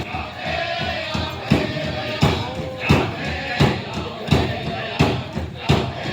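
Powwow drum beaten in a steady rhythm, about three strikes every two seconds, with singers' voices over it.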